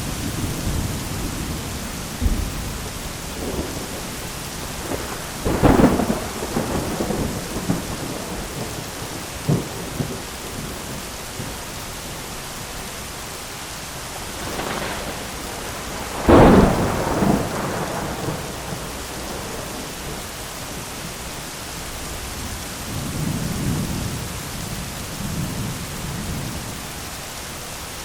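Heavy rain pattering steadily on an umbrella during a thunderstorm, with two loud thunder claps about six seconds in and again around sixteen seconds, and a lower rumble of thunder near the end.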